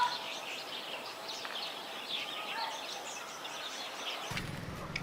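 Small birds chirping with many short, quick calls over a steady outdoor hiss; a low rumble comes in near the end.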